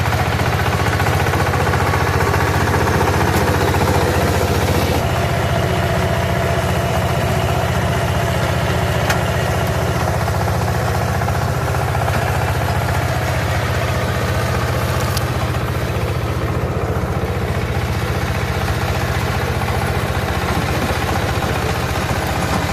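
Walking tractor's engine running steadily while it drives a rotavator through the soil.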